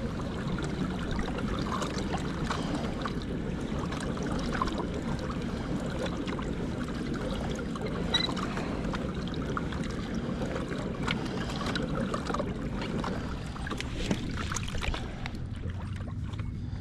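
Water splashing and lapping steadily against a kayak's hull, with scattered small knocks.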